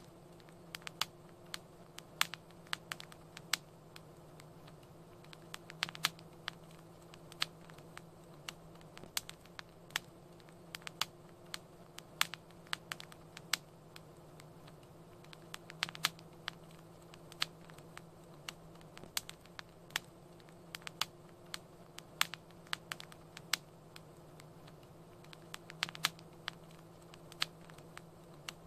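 Wood fire crackling in a fireplace: irregular sharp pops and snaps, a few a second, over a steady low hiss of the flames.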